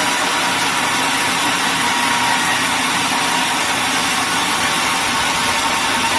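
Sawmill machinery running steadily: a loud, even mechanical noise with a faint high whine running through it.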